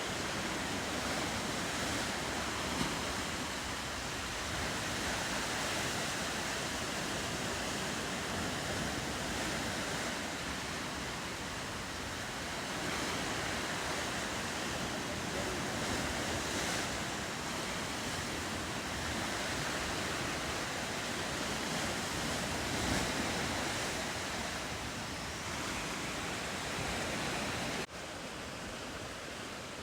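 Ocean surf washing steadily against the coast, with some wind. Near the end the sound drops abruptly and carries on a little quieter.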